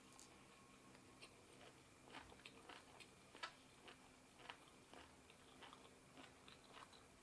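A person chewing and crunching food close to the microphone, faint, with a string of irregular short crisp crunches and mouth clicks.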